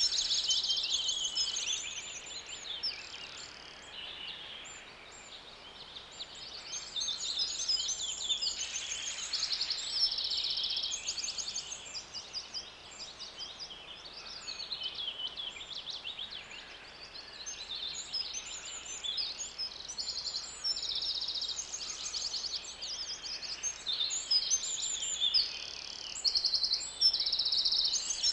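Birds chirping and singing in quick high-pitched trills and phrases, over a faint steady background hiss; the song thins out twice and is busiest near the start and the end.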